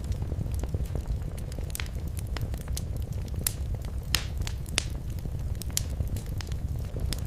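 Wood fire in a fireplace crackling, with irregular sharp pops over a steady low rumble; one louder pop about four seconds in.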